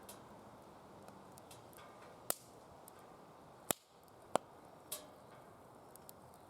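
Firewood burning in a DOD Mecha Moe Fire fire pit, crackling over a low steady hiss, with four sharp pops in the middle and a few lighter ticks.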